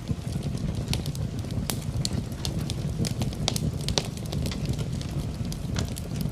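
Wood fire in a fireplace crackling, with many irregular sharp pops and snaps over a low steady rumble of flame, mixed with rain.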